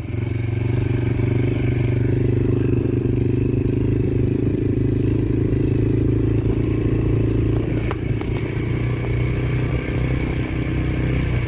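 Yamaha TT-R125LE dirt bike's single-cylinder four-stroke engine running steadily as the bike is ridden off, with a few light clicks about eight seconds in.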